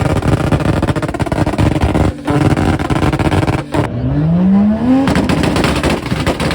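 Car engines held on a two-step launch-control rev limiter: a loud, rapid stutter of exhaust pops and bangs. It breaks off briefly twice, and one engine revs up with rising pitch about four seconds in.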